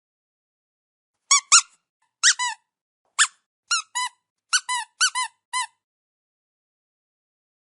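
About a dozen short, high-pitched squeaks in quick pairs and threes, each dipping slightly in pitch, with dead silence before and after.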